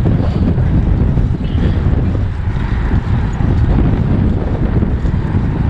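Wind buffeting the microphone of a moving bicycle rider: a loud, steady low rumble.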